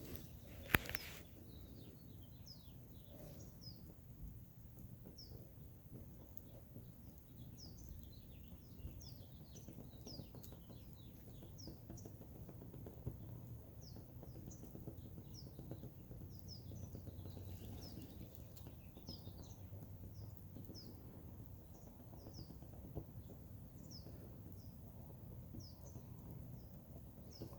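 Small birds chirping, many short falling chirps repeated throughout, over a low steady background rumble. One sharp click about a second in.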